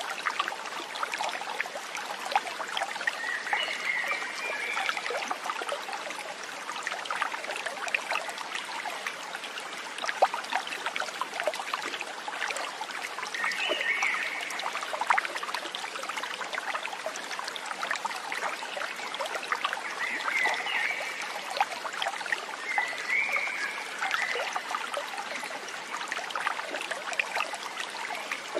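Stream water trickling and splashing steadily. Four short warbling animal calls come through over it.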